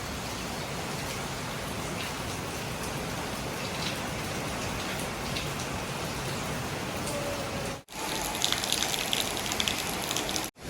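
Steady rain falling. After a brief dropout about eight seconds in comes a louder stretch of sharper, closer raindrops, which cuts off again just before the end.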